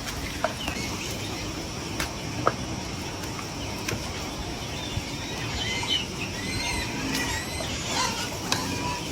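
Small birds chirping in short, high calls, most of them in the second half, over a steady background hiss, with a few sharp ticks early on.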